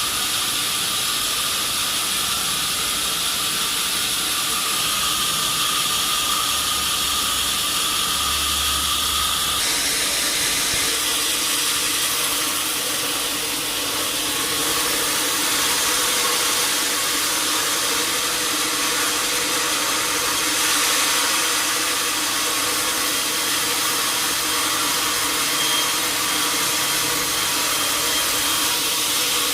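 Sawmill saw cutting a teak log, a steady hissing machine noise. About ten seconds in the tone changes and a lower hum comes in.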